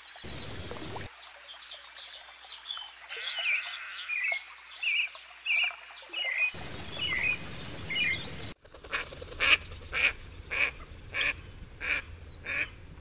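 A small bird singing a run of short, falling chirps, about two a second; then, after a cut, a duck quacking steadily, a little under two quacks a second.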